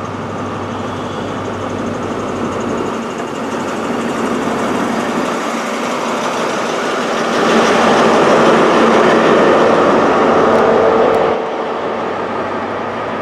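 Train moving at a station platform, a steady rumble that swells for about four seconds past the middle and then drops back.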